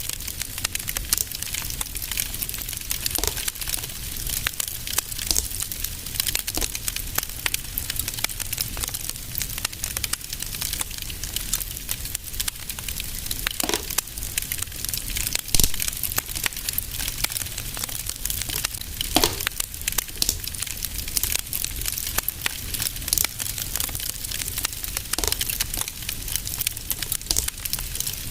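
Wood fire in a fireplace crackling steadily with a dense patter of small snaps. A few louder pops stand out, two of them together about two-thirds of the way through.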